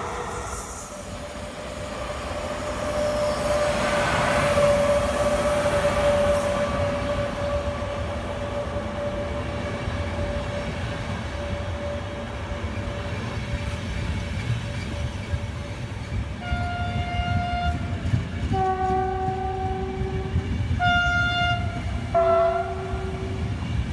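Train running through a station with a steady rumble and a long steady whine. In the last seven seconds the horn sounds four blasts, alternating between a higher single note and a lower two-tone note.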